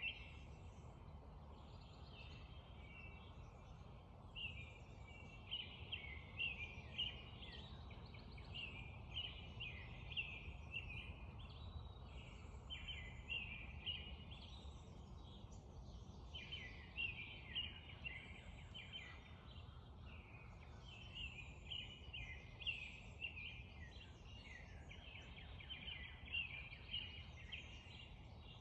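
Spring dawn chorus: several birds singing short repeated phrases that overlap continuously, over the steady low rush of a creek.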